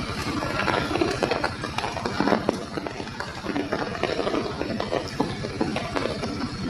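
Light drizzling rain falling, with many irregular drops ticking and tapping on nearby surfaces.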